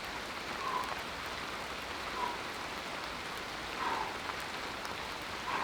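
Steady rain falling, an even hiss. A few faint short sounds come through it about every one and a half seconds.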